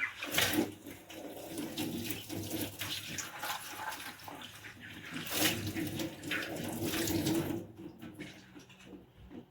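Kitchen tap running into a sink as dishes are rinsed by hand, with two brief louder moments in the flow; the water stops about three-quarters of the way through.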